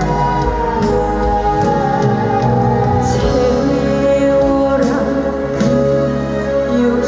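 A woman singing a slow song live over a band backing track, with long held notes that slide gently and a steady low bass.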